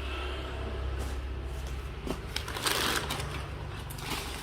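Rustling, crinkling handling noise, loudest about two to three seconds in, over a steady low hum.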